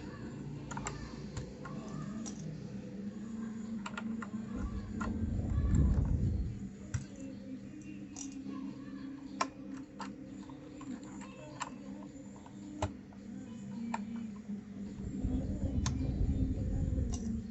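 Scattered sharp plastic clicks from keycaps on a mechanical keyboard, as they are pulled off and pressed on, over a steady low hum. A louder low rumble of handling comes about five to six seconds in and again near the end.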